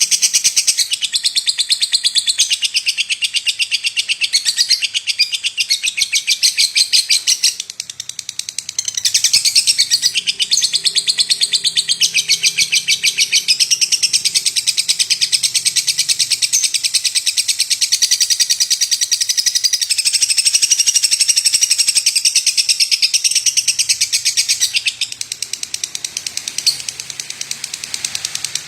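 Lovebird singing a long, rapid, nearly unbroken high chatter of chirps, with a brief break about eight seconds in and softer singing near the end.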